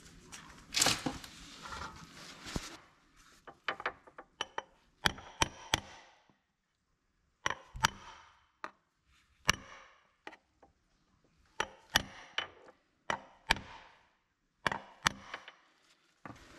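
Hand tools working on engine parts during reassembly: a few seconds of handling and rustling, then a run of sharp, irregular metallic clicks and knocks, each with a brief ring.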